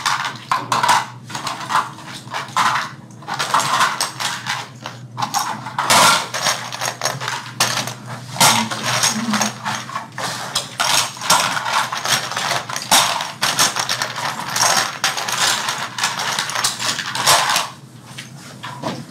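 Small hard toy airplane parts clicking and clattering as they are handled and fitted together by hand, in quick irregular taps.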